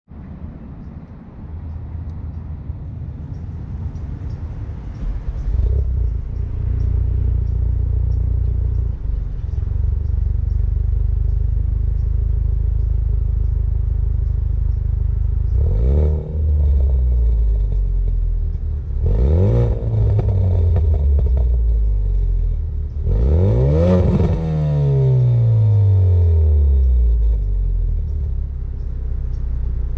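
2017 Ford Focus RS's turbocharged 2.3-litre four-cylinder running through a Cobb Tuning cat-back exhaust: a steady idle, then three revs about 16, 19 and 24 seconds in, each rising and falling in pitch, the last held longest before it drops back to idle.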